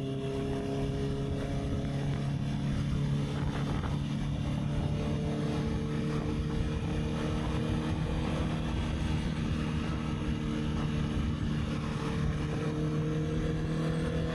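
Honda CB650R's inline-four engine running at a steady cruise, its note creeping slowly higher, with wind rumbling on the microphone.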